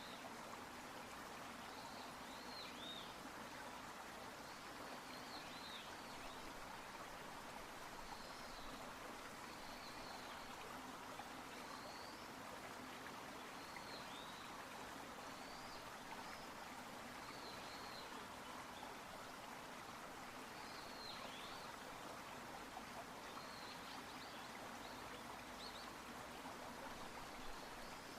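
Faint, steady sound of a stream or river running, with a bird's short high chirps repeating every second or two.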